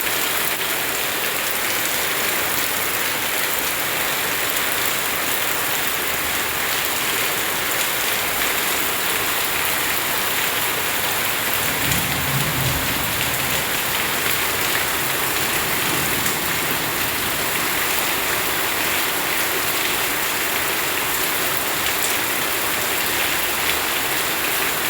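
Rain pouring down steadily, drumming on surfaces. A brief low rumble sounds about halfway through.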